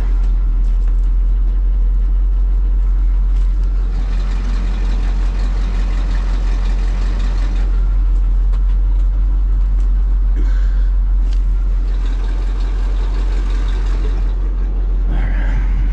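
Engine idling steadily with a deep, even hum, and a few light knocks about ten seconds in.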